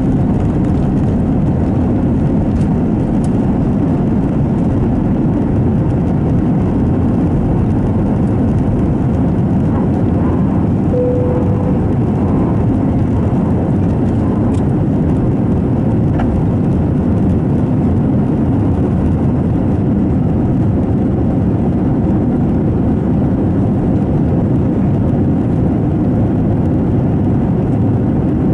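Steady engine and airflow noise heard inside the cabin of an Airbus A321 in flight, even in level throughout. A short steady tone sounds once, about eleven seconds in.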